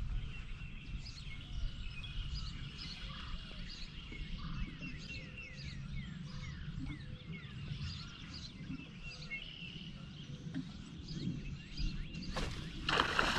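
Several songbirds singing and chirping, many short notes and quick downward-slurred whistles, over a low steady rumble. Near the end a sudden loud rushing noise cuts in.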